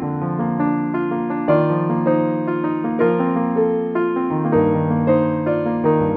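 Background piano music: a gentle melody of notes over sustained chords.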